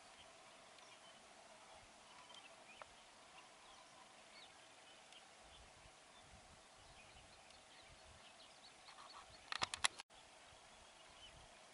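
Faint open-air ambience over a steady hiss, with scattered brief, distant bird chirps. Near the end a quick run of loud clicks, after which the sound cuts out for an instant.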